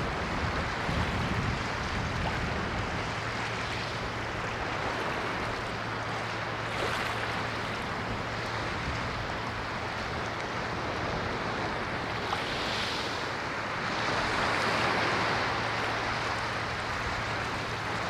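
Ocean surf washing steadily on a shore, swelling a little louder shortly after the middle.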